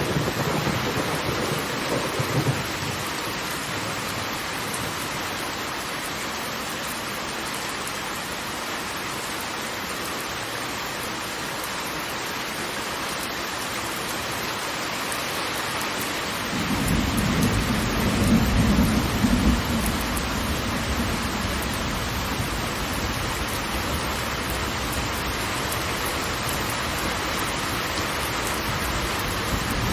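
Steady rush of heavy falling water. A deep rumble briefly swells in the first couple of seconds, and again more strongly from about 17 seconds in, easing off by about 20 seconds.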